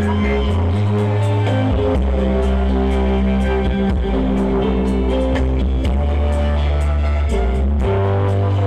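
Music played loud through a rented sound system during a sound check, with heavy bass notes held for a second or two each, a plucked melody over them, and a light steady beat.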